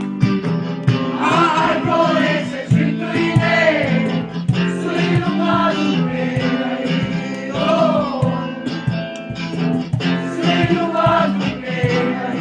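Voices singing a song to guitar accompaniment, with the guitar played in steady strums.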